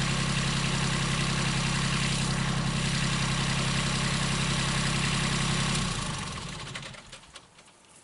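Engine idling steadily, then shut off about six seconds in and winding down to a stop.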